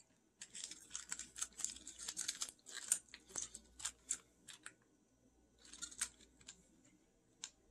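Faint chewing of a soft, chewy candy: irregular small clicks and smacks of the mouth for about five seconds, then a pause, a few more about six seconds in and a last click near the end.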